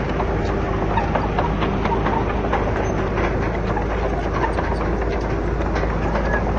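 Komatsu D31PX bulldozer at work: its diesel engine runs steadily with a low hum, under a dense, irregular clatter of metallic clanks and rock knocks.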